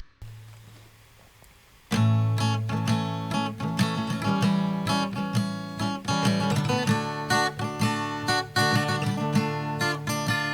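Acoustic guitar strumming a song's intro, coming in suddenly about two seconds in after a faint low hum.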